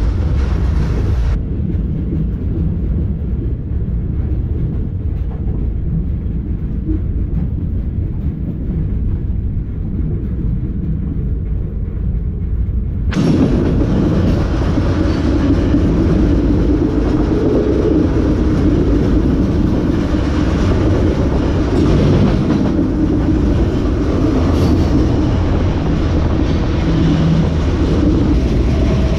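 Moving freight train heard from aboard a car: a steady low rumble, which gets louder and noisier about thirteen seconds in.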